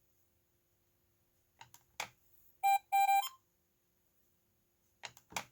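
A talking bingo toy's speaker gives two short electronic beeps in quick succession, with a few sharp clicks before and after.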